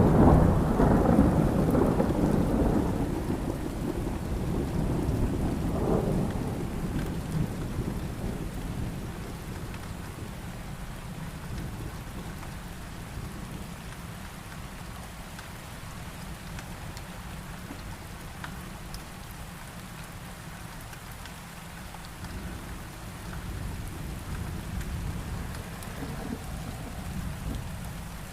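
Thunderstorm with steady heavy rain. A thunderclap's low rumble rolls away over the first several seconds, with a brief renewed rumble about six seconds in. Distant thunder swells again near the end.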